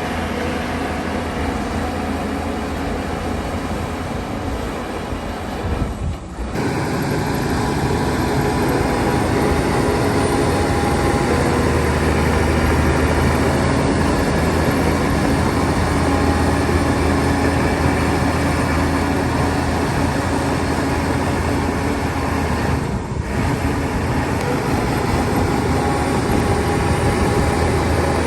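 Heavy diesel earthmoving machinery running steadily under work. Its low engine hum grows stronger about twelve seconds in, and the sound briefly dips twice.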